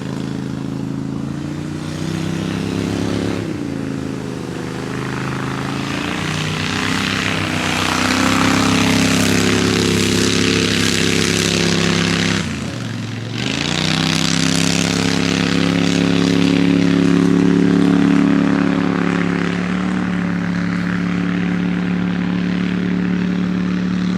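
Boat engine running loud and close. Its pitch climbs slowly, dips sharply about halfway through as the throttle comes off, then rises again and holds steady.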